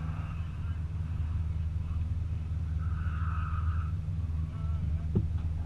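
2015 Subaru WRX STI's turbocharged 2.5-litre flat-four idling steadily, heard from inside the cabin. A single sharp click comes about five seconds in.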